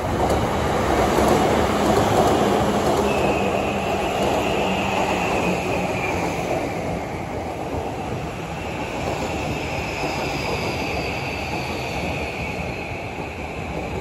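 JR East electric commuter train running on the rails at the station: a loud rumble of wheels that swells to a peak about two seconds in. From about three seconds in, high whining tones sound steadily and slowly fall in pitch.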